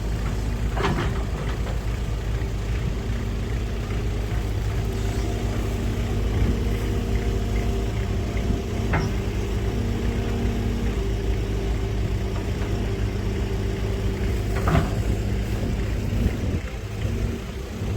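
Kobelco SK200-10 excavator's diesel engine running steadily while the machine works its arm, its tone shifting slightly partway through. Three short knocks stand out: near the start, about halfway, and near the end.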